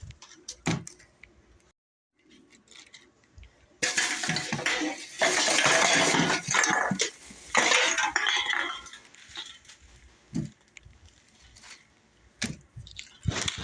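Glass jars clinking and knocking together as a basket of jars is handled. There are scattered clinks, then a dense clattering stretch in the middle lasting about five seconds, then a few more knocks.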